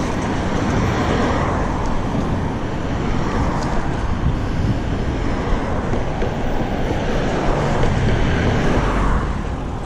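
Steady road traffic noise heard from a bicycle riding beside a busy street, with a constant low rumble.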